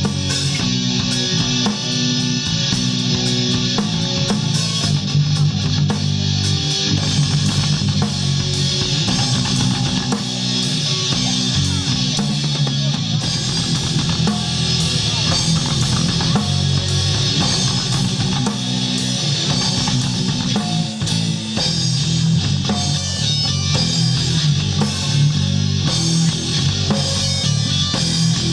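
Live rock music: a band playing with electric guitars and a drum kit, heavy and steady throughout.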